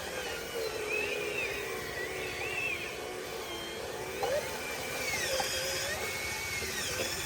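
Small electric motors of remote-controlled construction models whining, the pitch rising and falling as the machines speed up and slow down.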